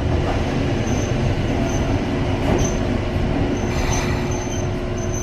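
Ohmi Railway electric train, a former Seibu car, rumbling steadily at the station, with a held hum and several brief, thin, high-pitched wheel squeals.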